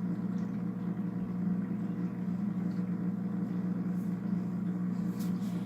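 Polar Aurora four-stage canister filter's pump motor running after being plugged back in, a steady, pretty noisy hum.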